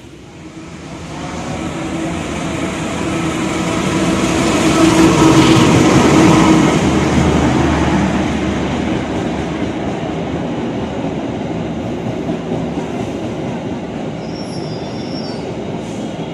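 CC 206 diesel-electric locomotive hauling a passenger train past close by. Its engine sound swells to a peak about five seconds in, then the coaches roll by steadily, with a brief high-pitched squeal near the end.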